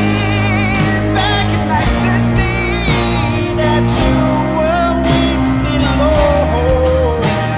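Live rock band playing: drums, bass and guitars with a melody line that wavers and bends in pitch over the top.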